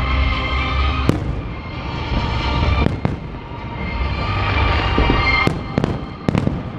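Fireworks display: aerial shells bursting with sharp bangs over a continuous low rumble and crackle, about six bangs in all, four of them in quick succession near the end.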